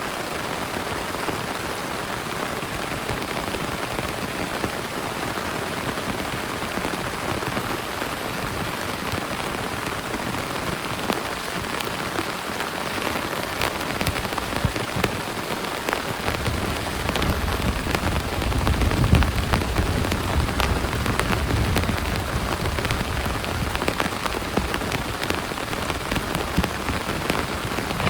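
Heavy rain falling steadily, with scattered sharp drop hits. About sixteen seconds in, a low thunder rumble builds and keeps rolling to the end.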